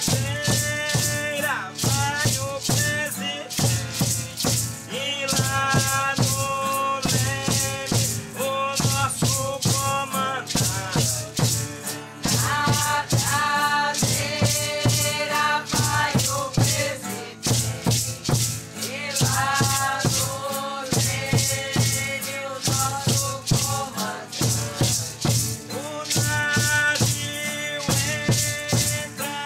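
Singing voices in a chant over a steady beat of shaken rattles, about two to three shakes a second.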